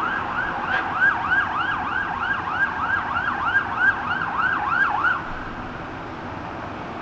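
Emergency vehicle siren on its fast yelp setting, a rising-and-falling wail repeating about three to four times a second, which cuts off about five seconds in.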